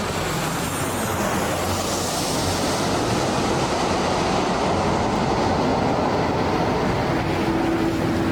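SpaceX Starship's Raptor rocket engines firing: a loud, steady rushing rumble that cuts in abruptly.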